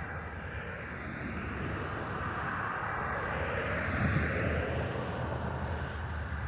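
Steady distant motor-vehicle rumble, swelling a little around the middle and easing off again.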